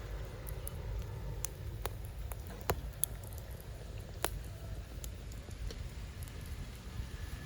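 Low rumbling noise with scattered sharp clicks and snaps, irregularly spaced and a few seconds apart at most.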